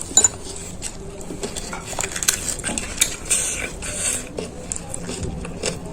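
Scattered light clinks and crackles of crisp panipuri shells being handled on a plate.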